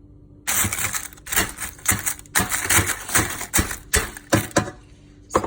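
Dried, brittle eggshells rattling and crackling as they are handled, a quick irregular run of clicks and crunches that stops near the end.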